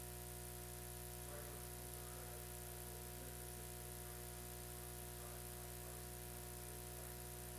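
A steady electrical hum and buzz made of many fixed tones, unchanging in level, with a faint wavering sound under it about a second in.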